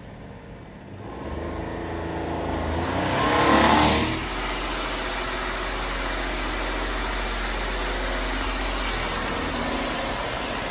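1995 Honda Acty mini truck engine revving up to a brief loud peak about three to four seconds in, then dropping to a steady running sound with a low hum.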